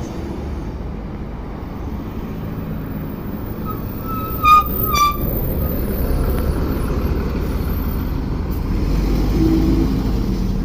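A large bus's engine running steadily as a low rumble. About halfway through come two brief high-pitched tones, the first the louder.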